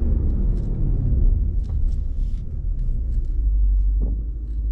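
Jeep Grand Cherokee SRT's 6.4-litre V8 engine and exhaust running with a deep rumble, heard from inside the cabin while driving. The note settles into a steadier low drone about three and a half seconds in.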